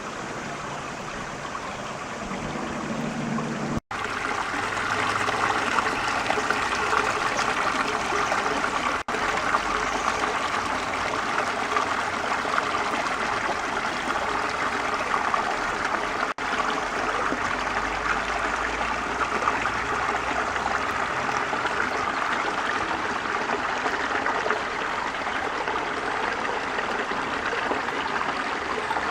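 The Godlikh mountain river flowing in a steady rushing noise. It briefly cuts out about 4, 9 and 16 seconds in, and it is louder after the first break.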